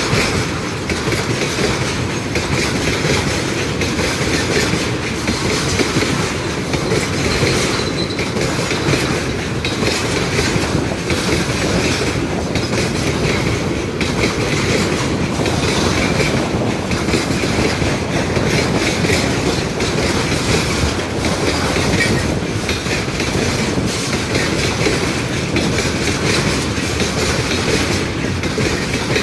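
A train's wagons rolling past at steady speed, wheels clacking over the rail joints, with a continuous loud rumble.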